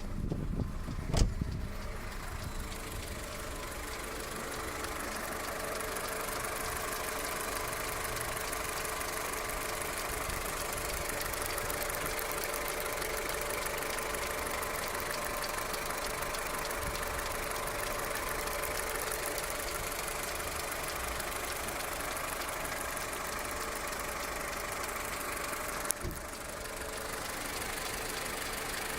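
Skoda Octavia Tour's 1.4 16-valve four-cylinder petrol engine idling steadily at operating temperature, with the worrying knock that has appeared at 630,000 km though no error codes show. A sharp thump about a second in and a short click near the end.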